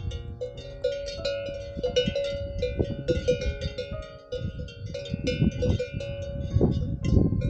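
Cowbells on grazing cattle clanking irregularly, several bells ringing at once over a low rumble.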